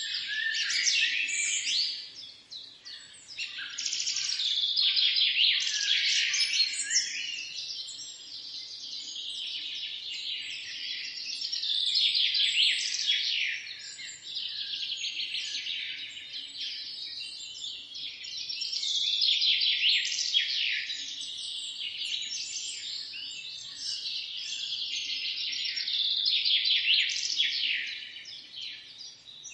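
A dense dawn chorus of many songbirds, chirping and trilling over one another. It swells and fades in waves every few seconds.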